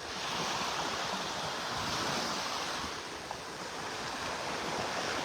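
Gulf of Mexico surf washing onto the beach, a steady hiss that swells a little about two seconds in and again near the end.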